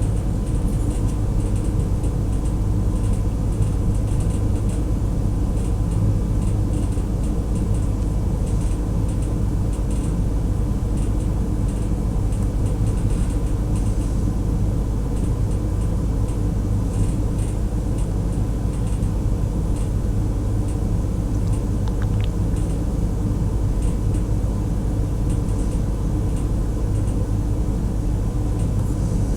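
Steady low background hum, with faint small ticks and clicks throughout.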